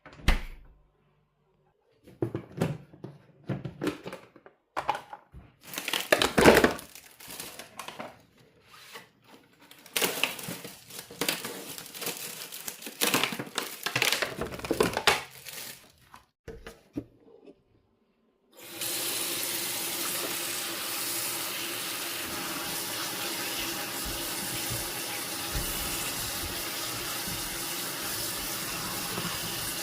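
Scattered clatter and knocks of things being handled, then a tap is turned on about two-thirds of the way in and water runs steadily into a sink.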